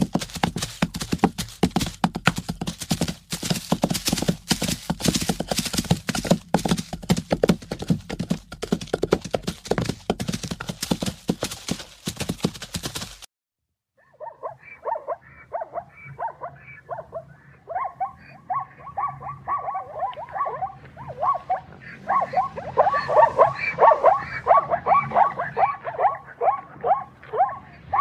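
Zebras calling with a long run of rapid, high-pitched barking yelps, several a second, that grow louder about two-thirds of the way through. In the first half, before a brief break, there is a dense crackling noise instead.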